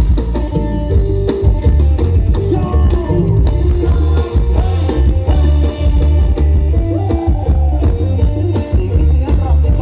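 Loud live music from a Thai procession sound-truck band (rot hae): heavy bass and a drum kit under electric guitar and melody, recorded on a phone's microphone.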